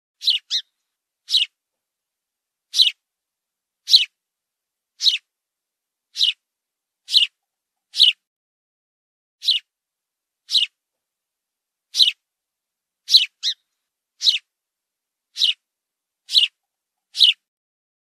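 A fledgling bird cheeping: short, high peeps that slide downward, repeated about once a second, a few coming in quick pairs.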